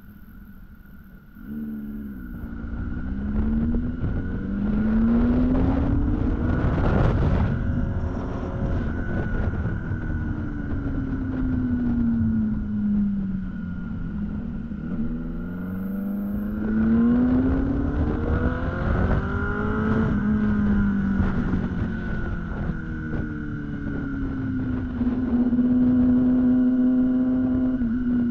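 Kawasaki ZX-10R sport bike's inline-four engine under way, its pitch climbing and falling several times as the throttle is rolled on and off, with wind rushing over the microphone. The engine settles into a steady pitch near the end.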